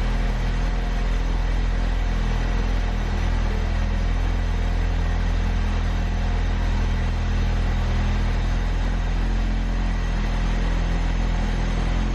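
Ford Focus RS engine idling steadily.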